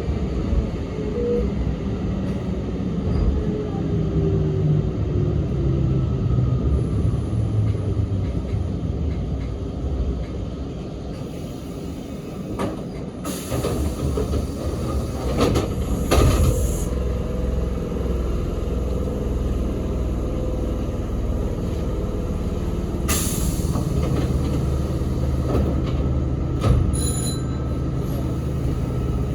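Sanyo Electric Railway 3050 series electric train heard from inside the car: running rumble with slowly falling tones as it slows into a station, then loud bursts of compressed-air hiss about halfway through and again later, and a short high beep near the end over a steady low hum.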